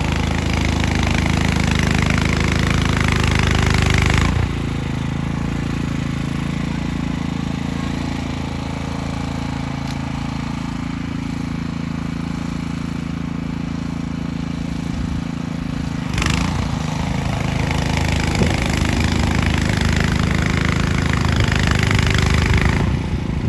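Small engine running steadily, with a louder rushing noise over it for the first four seconds and again from about 16 seconds in.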